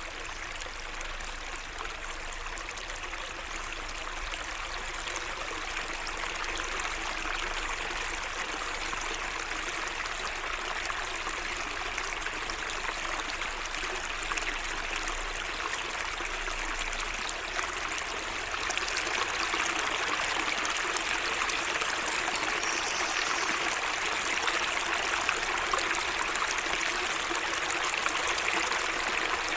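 Water running in a small garden waterway: a steady trickling, gurgling flow that gets a little louder about two-thirds of the way through.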